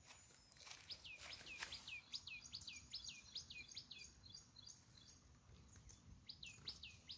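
A bird calling repeatedly, faint: a quick downward-sliding note two or three times a second, in a run of about a dozen calls that pauses after about four and a half seconds and starts again near the end.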